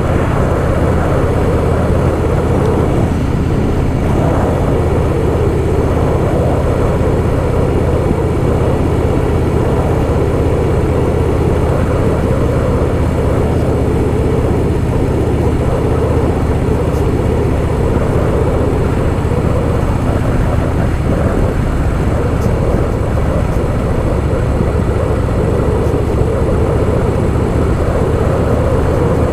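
Harley-Davidson Softail Fat Boy's V-twin engine running steadily while the bike cruises, with no change in engine speed.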